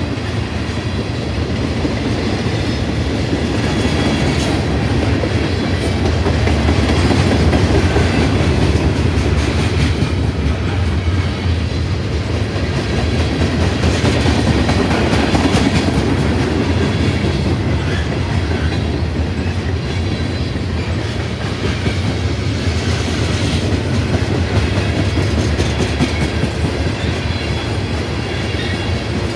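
A freight train rolling past, the steady noise of its wheels on the rails swelling a little in the middle and easing toward the end.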